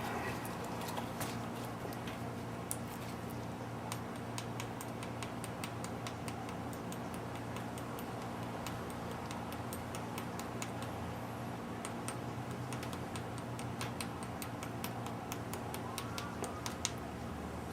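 Hand lapping of a Ford 302 valve against its seat with lapping compound: the valve is worked back and forth, giving a long run of fine, irregular gritty clicks, several a second. A steady low hum runs underneath.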